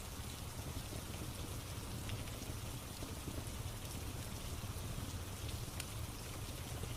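Steady rain ambience mixed with a crackling fire, a few faint sharp crackles standing out over the even rain.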